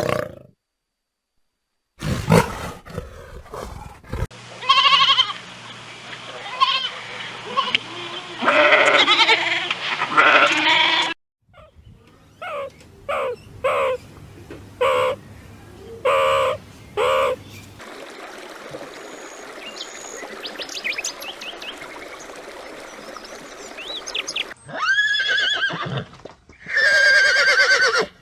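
A run of short farm-animal recordings cut one after another, each holding repeated animal calls. One quieter clip has faint high chirps, and a loud call comes near the end.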